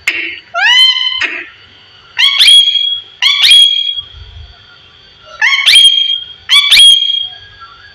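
Parrot calling: about five loud whistled calls, each sweeping sharply upward and then holding a high note, with a couple of short harsh squawks near the start.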